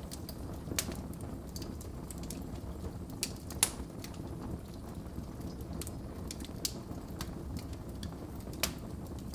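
Wood fire crackling in a fireplace: a steady low rumble of the flames with irregular sharp pops and snaps, the loudest about three and a half seconds in.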